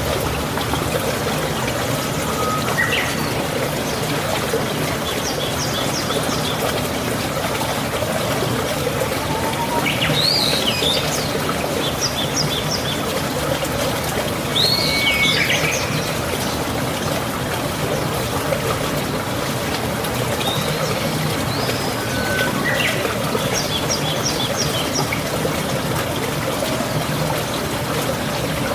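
Steady rush of falling water, with birds chirping and whistling over it every few seconds: quick runs of high chirps and a few short sweeping whistles.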